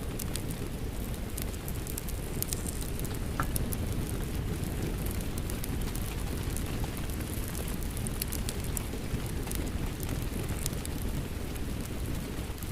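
Rain and a crackling wood fire mixed together: a steady low rumble of rain or fire with irregular sharp crackles and pops scattered throughout.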